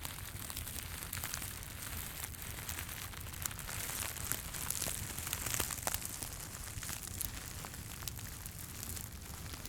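Fireplace crackling, with scattered sharp pops over a low steady rumble, alongside soft crinkling and rustling from handling.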